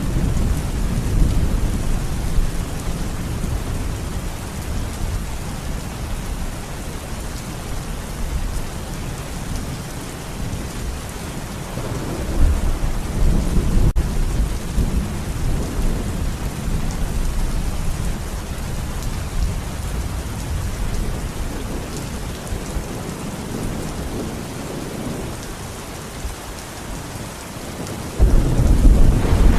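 Thunderstorm: steady heavy rain with low rolling thunder, swelling about twelve seconds in and again with a sudden louder clap near the end.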